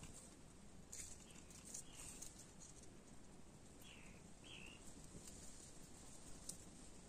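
White-naped jay foraging in dry leaf litter: faint scattered ticks and rustles as it pecks at the ground. Two short faint bird chirps come about four seconds in.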